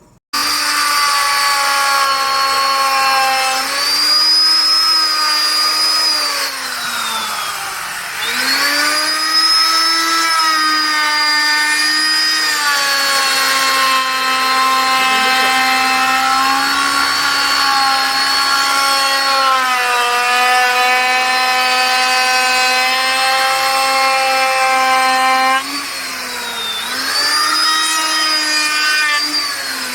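Handheld electric woodworking power tool running through wood with a high motor whine. The pitch sags and recovers several times as the cutter bites harder into the timber, dropping most deeply twice.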